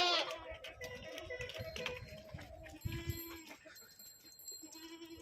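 Goats bleating: a loud bleat tails off at the start, then two shorter, quieter bleats follow, about three seconds in and near the end.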